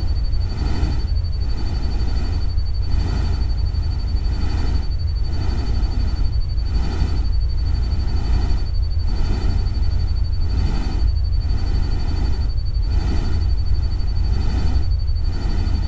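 Ambient nature-sound track: a deep steady rumble under a noisy wash that swells and fades about once a second, with a steady high tone above it.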